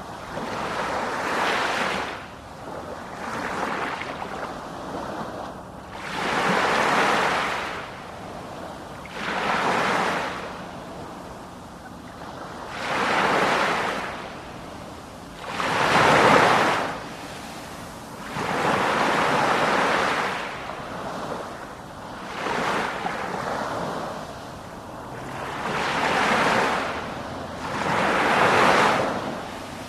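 Sea waves breaking and washing in, one surge after another about every three seconds.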